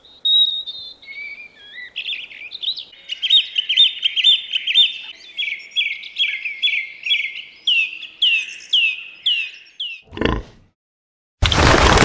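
A songbird singing: a series of notes that speed into a quick run, then several falling slurred notes about half a second apart. A short thump follows, and a loud rumbling noise breaks in near the end.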